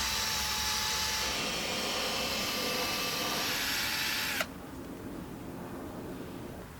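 Battery drill spinning an abrasive sanding pad from a 3M headlight restoration kit against the car's unmasked surface: a steady gritty hiss over the drill's motor whine, which stops suddenly about four and a half seconds in, leaving only a faint hiss.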